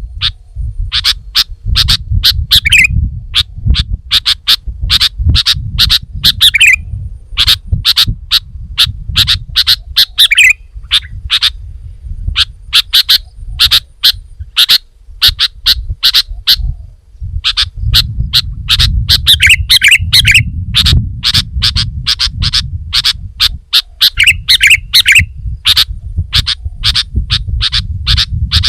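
Sooty-headed bulbul (kutilang) calling in rapid runs of short, sharp chirping notes, in phrases of a few seconds broken by brief pauses, over a low rumble.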